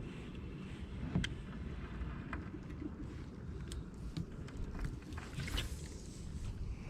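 Kayak on a river: a steady low rumble with a few light clicks and knocks scattered through.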